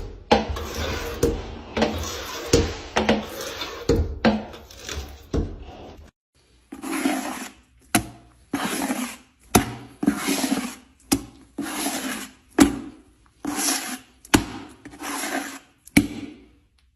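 Rubbing and scratching strokes with sharp taps, dense at first. After a short break about six seconds in, they settle into regular slow swishes a little under a second apart, each with a click.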